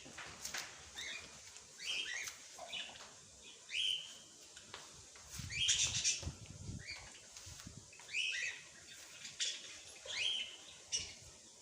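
Small birds chirping in short, quick, sweeping chirps repeated every second or so, with a brief low rustling noise about halfway through.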